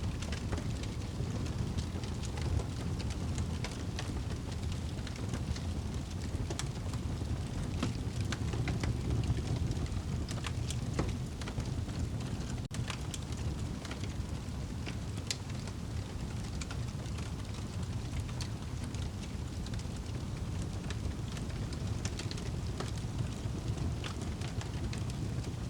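Wood fire burning in a fireplace: a steady low rumble from the flames, with frequent small crackles and pops scattered throughout.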